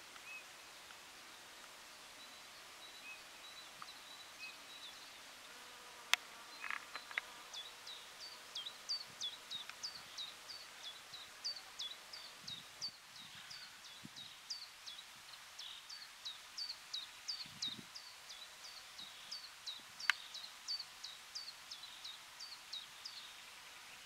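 A small bird singing a long run of short, high, downward-slurred notes, repeated about two or three times a second, beginning about seven seconds in, over a faint outdoor background. Two sharp clicks, about six and twenty seconds in.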